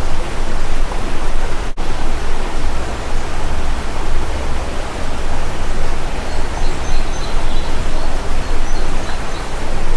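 Loud, steady rushing noise with a fluctuating low rumble, cutting out for an instant about two seconds in. Faint short bird chirps come through a few times in the second half.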